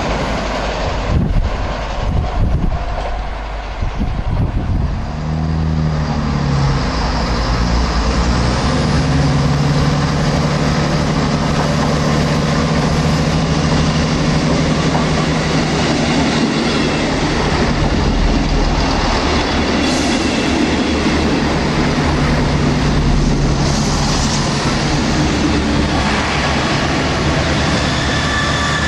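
For the first few seconds a passing train rushes by with some wheel clatter. Then an Arriva Trains Wales Class 158 diesel multiple unit approaches and runs past, its underfloor diesel engines humming steadily over the rush and clatter of wheels on rail, getting louder as it comes close.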